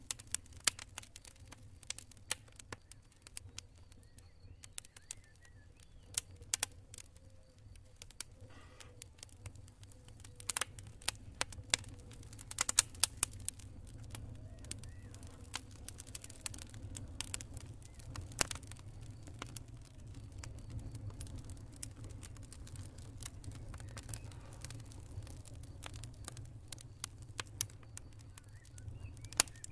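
Campfire crackling, with irregular sharp snaps and pops from the burning wood, a few louder ones near the middle, over a steady low rumble of the flames.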